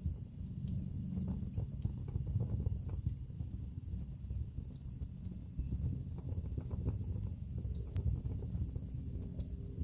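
Wood fire burning with a low steady rumble of flame and frequent sharp crackles and pops from the logs, a few louder pops about four and eight seconds in.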